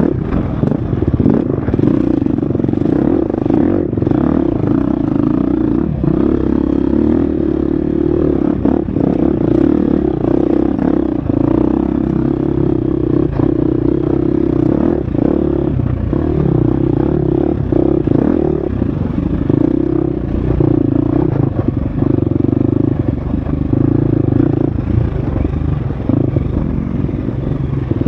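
Husqvarna FX 350 four-stroke single-cylinder dirt bike engine running hard on a trail ride, its pitch dipping and picking up again and again with the throttle. Short knocks and clatter come from the bike over rough ground.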